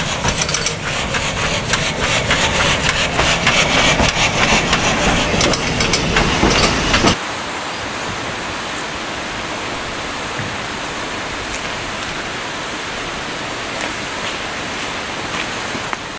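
Vale of Rheidol 2-6-2T No. 8 narrow-gauge steam locomotive working, its steam and exhaust noise full of rapid clicks and beats. About seven seconds in it cuts off abruptly to a steadier, quieter rushing hiss.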